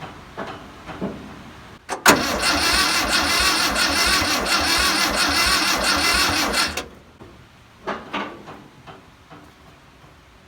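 Starter cranking the 1962 VW Type 2's air-cooled flat-four for about five seconds, turning it over with an even pulse without it catching, during a spark check with no fuel in it yet. A few short knocks come before and after.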